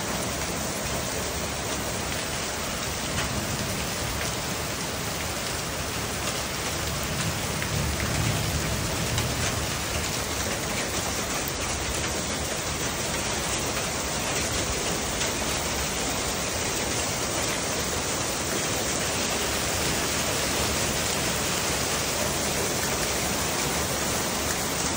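Heavy storm rain falling steadily on a concrete pad and gravel, an even hiss of rain, with a brief low rumble about eight seconds in.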